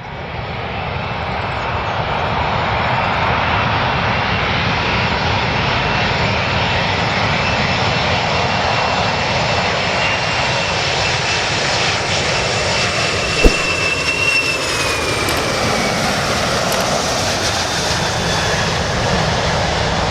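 Airplane engines running loud and steady, a broad rush of engine noise with a faint high whine that dips lower about fifteen seconds in. A single sharp click about thirteen seconds in.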